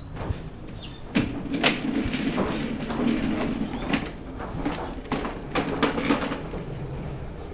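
Irregular clunks and rattles of the plastic Ozito battery lawn mower being handled and moved, for about five seconds; the motor is not running.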